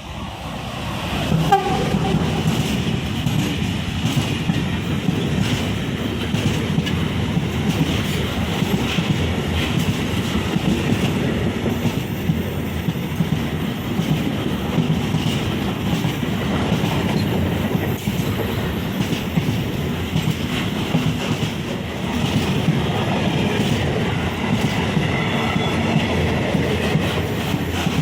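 A train passing close by. It builds up over the first second or two, then holds a steady rumble with wheels clattering over the rail joints.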